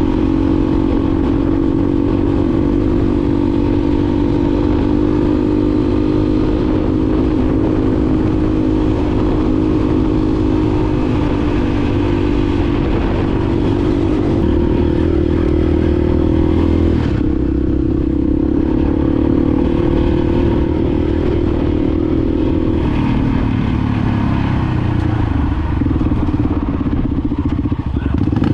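Honda XR250 Baja single-cylinder four-stroke motorcycle engine running under way. Its note holds steady, shifts about two-thirds of the way through and drops again near the end.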